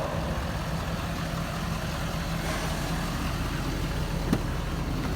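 Ford 6.7 Powerstroke turbo-diesel V8 with aftermarket exhaust idling with a steady low hum, with a single short click about four seconds in.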